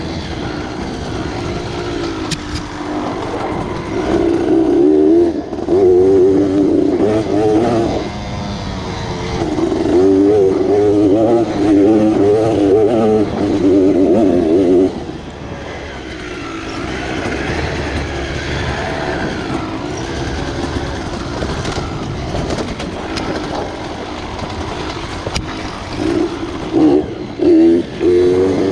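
Dirt bike engine working up a trail, revving hard in long pulls, easing off to a softer run for a while, then giving short quick throttle blips near the end.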